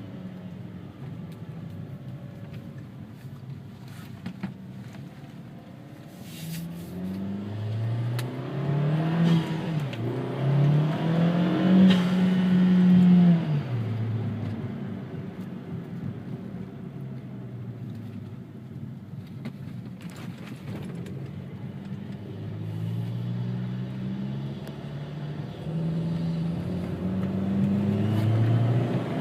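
A 2013 Chevy Sonic RS's engine and new aftermarket exhaust heard from inside the cabin, pulling hard with the note rising through the gears and dipping at each shift. It then settles back to a steady cruise before climbing again near the end.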